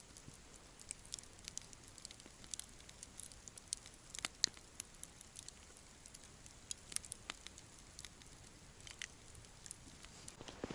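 Wood campfire crackling faintly, with scattered sharp pops and snaps a few times a second over a low hiss.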